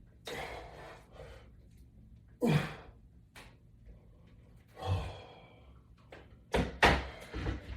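A man's heavy exhales and sighs while pulling down on resistance bands, one with a falling pitch, followed by a few sharp knocks near the end.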